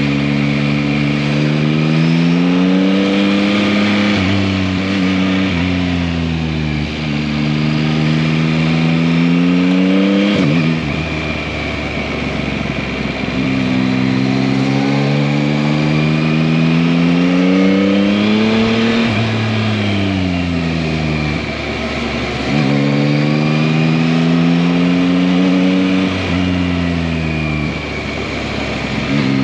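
2021 Yamaha MT-09's 890 cc inline three-cylinder engine under way, its pitch climbing under acceleration and dropping sharply at each upshift. Several pulls through the gears, with the pitch sinking in between as the throttle closes.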